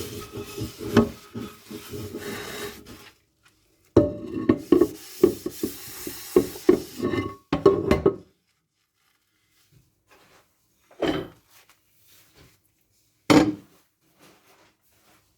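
Dishes being washed by hand: rubbing and scrubbing with frequent small clinks and knocks, in two bouts separated by a short pause. Later come two single knocks, about two seconds apart, as dishware is set down.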